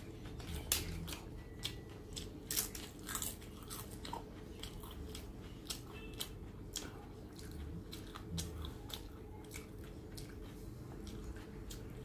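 Close-up chewing and crunching of crisp fried papad, with sharp irregular cracks as the wafer is broken and bitten, thickest in the first few seconds.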